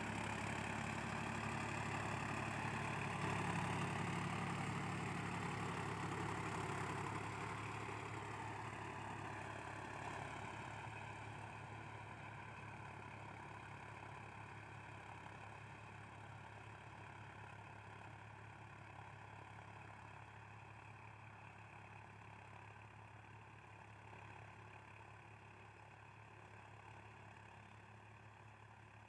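Swaraj 960 tractor's diesel engine running steadily, its pitch easing down about ten seconds in, then gradually growing fainter.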